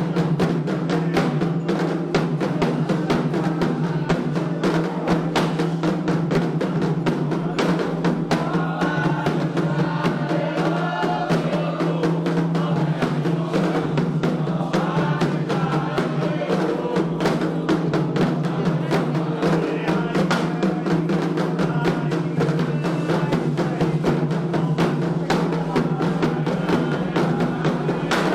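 Candomblé ritual drumming: atabaque hand drums beating a fast, steady rhythm, with voices singing over it for part of the time.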